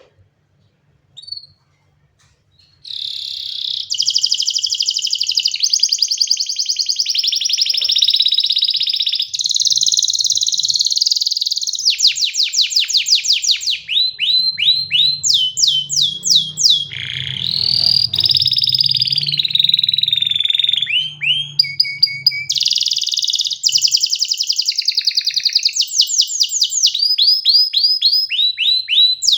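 Domestic canary singing a long, unbroken song made of rapid trills: each note repeated many times a second in runs that switch to a new note every second or two, with some rising and falling sweeps. It starts about three seconds in, after one faint short chirp.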